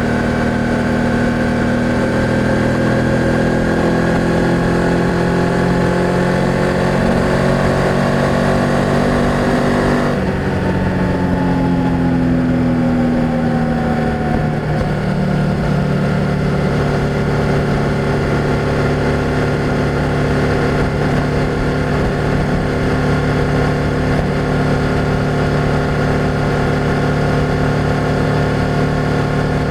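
BMW F800GS parallel-twin engine and exhaust under way, the revs climbing slowly for about ten seconds. Then the revs drop suddenly and the pitch sags, and it settles into a steady cruise.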